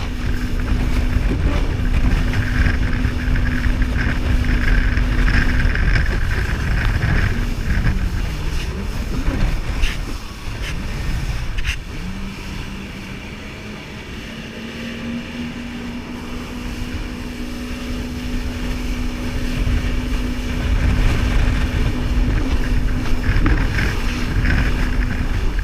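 Jet ski engine running at speed. The engine note wavers, drops about halfway through as the throttle eases, then climbs back up as it speeds up again.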